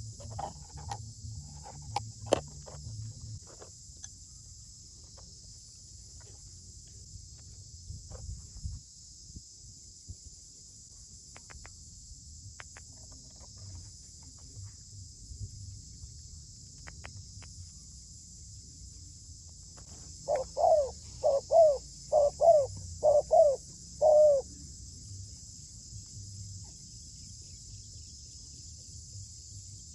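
Zebra dove calling: a run of five cooing notes about two-thirds of the way in, over a steady high drone of crickets or other insects. A few faint clicks come near the start.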